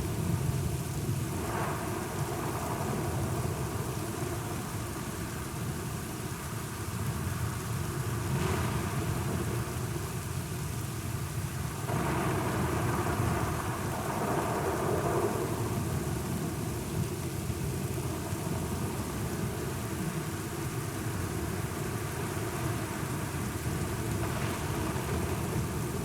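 Steady heavy rain with rolling thunder rumbling underneath; a louder roll of thunder swells about halfway through and fades over a few seconds.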